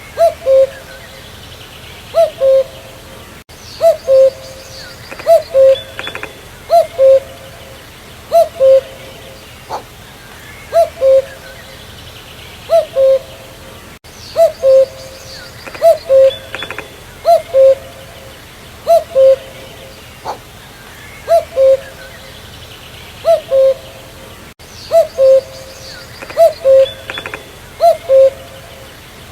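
Common cuckoo (Cuculus canorus) singing its two-note "cuck-oo" call, a higher note dropping to a lower one, repeated about every second and a half. Faint higher chirps from other birds sit behind it.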